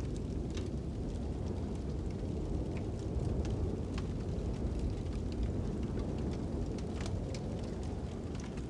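Wind blowing in a steady low rush, over a fire crackling with sharp, irregular pops and snaps.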